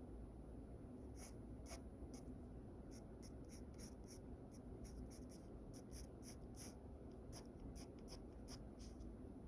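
Pencil sketching on paper: short, quick scratchy strokes, several a second, starting about a second in.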